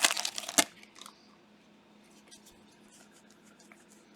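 Plastic card-pack wrapper crinkling as a pack is torn open, stopping with a sharp click within the first second, followed by faint light clicks of cards being handled.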